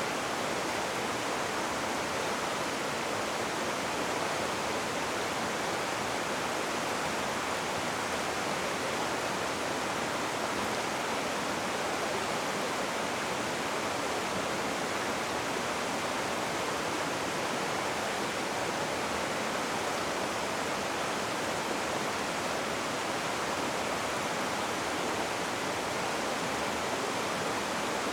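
Rushing water from a river or cascade, a steady even hiss with no single splashes standing out.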